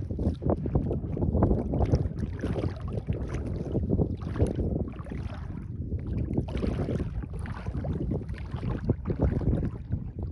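Sea water lapping and sloshing in small uneven surges, with wind rumbling on the microphone.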